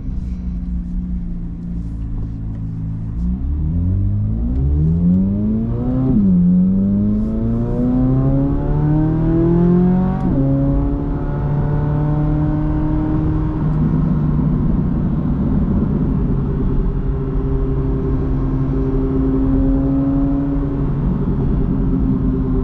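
Chevrolet Corvette C8 Z06's 5.5-litre naturally aspirated flat-plane-crank V8 accelerating through the gears. The revs climb, drop sharply at an upshift about six seconds in, climb again and drop at a second upshift about ten seconds in, then hold steady at cruise.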